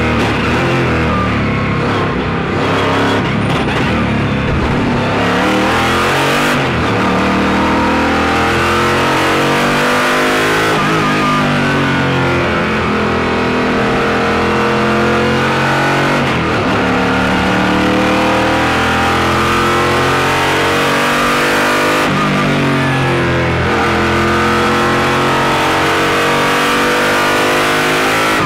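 Koenigsegg CCGT race car's naturally aspirated V8 heard from onboard, pulling hard through the gears on a track lap. The engine pitch rises and drops repeatedly as it shifts and brakes for corners.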